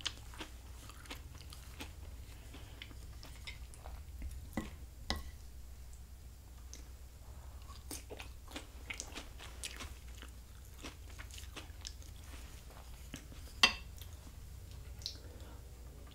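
Close-miked chewing and biting of food, with scattered short clicks and one sharper click late on, over a steady low hum.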